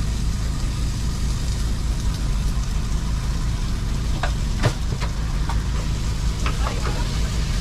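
Steady low engine-like drone of a food truck's running machinery, with a few sharp clinks and knocks from kitchen work scattered through it; the loudest clink comes a little past the middle.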